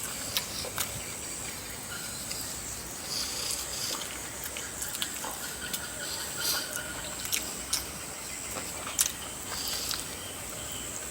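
Close-up eating: wet chewing, sucking and lip smacks on soft-stewed chicken feet and curry noodles, with many sharp clicks. A faint steady high-pitched whine sits underneath.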